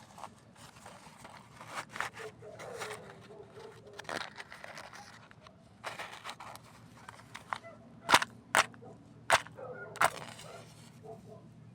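Campfire crackling with scattered small snaps, then four sharp, loud pops close together near the end.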